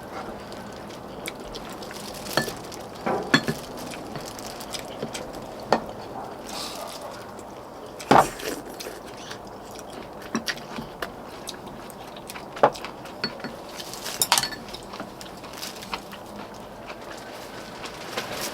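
Spoons and chopsticks clinking and knocking against bowls during a meal, a scattering of short separate clinks over a steady background hiss, the loudest about eight seconds in.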